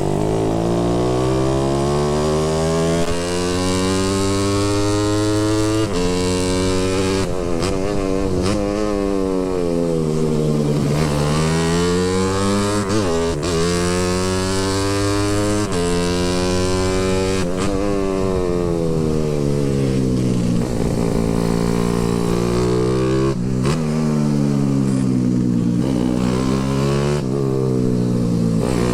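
Motorcycle engine running under load while ridden. Its revs repeatedly climb and then drop back, about eight times, as the throttle is opened and rolled off.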